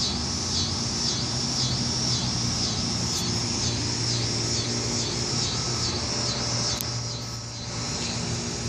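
A bird calling over and over, a high-pitched call about twice a second, stopping about seven seconds in, over a steady low hum.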